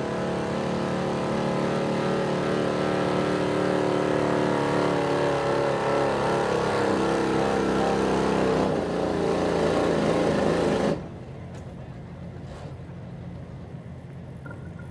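Pulling truck's engine running hard at high revs under load, then cut back abruptly about eleven seconds in to a low rumble.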